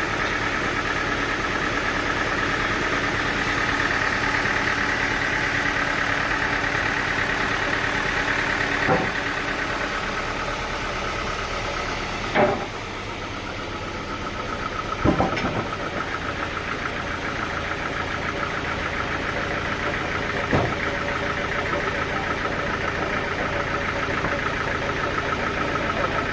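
An engine running steadily at idle, with four sharp knocks or bangs spread through it.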